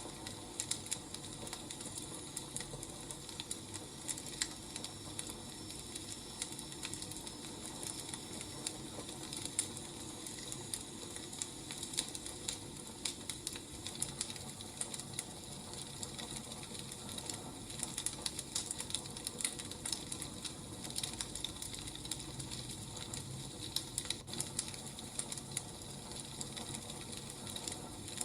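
Wood fire crackling: a steady low hiss with many irregular sharp pops and snaps.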